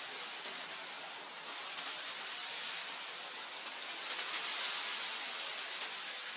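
Wind blowing across grassland: a steady high hiss that swells about four and a half seconds in, then eases back.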